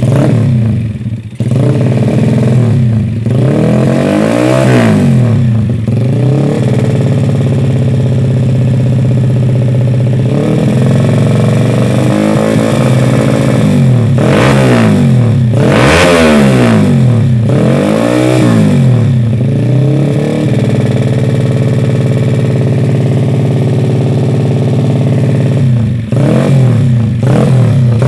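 Yamaha Jupiter Z single-cylinder four-stroke motorcycle engine running through a Hokage aftermarket exhaust. It idles steadily and is blipped repeatedly, about half a dozen short revs clustered in the middle, each rising and falling back to idle.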